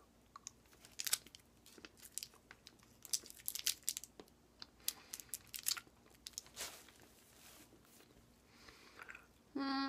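Mouth sounds of someone chewing a durian-flavoured soft chewy candy: scattered small wet clicks and smacks for about seven seconds, then a short hummed sound near the end.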